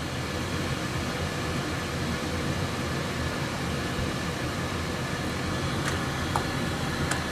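Steady blowing hiss of a fan running on an electronics repair bench while a logic board is preheated, with a few faint light clicks near the end.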